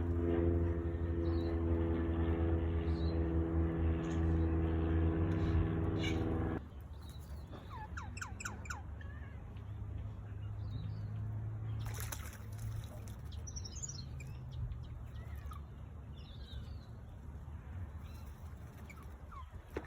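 A steady droning hum with several even tones stops suddenly about six seconds in. After it, birds give scattered short chirps and calls, a quick run of sweeping notes a couple of seconds after the hum stops and more calls later.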